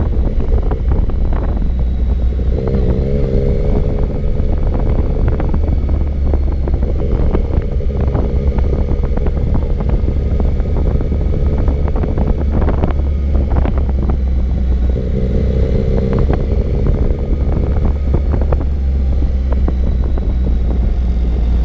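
Motorcycle engine running at a steady cruise under heavy wind noise on the microphone, with its steady engine note coming through strongly twice and fading back into the wind in between.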